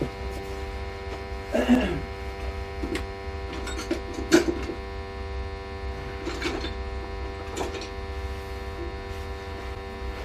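A steady electrical hum with many overtones, broken by a handful of short knocks and scrapes, about six over the stretch.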